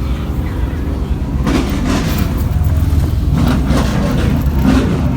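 Car engine running loudly with a low, uneven rumble that gets a little louder about a second and a half in.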